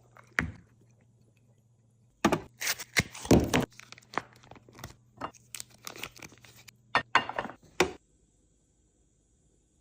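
Hard containers and bottles clinking and knocking together as they are handled and set down while restocking a fridge: a busy run of clicks and clinks for several seconds that stops abruptly near the end.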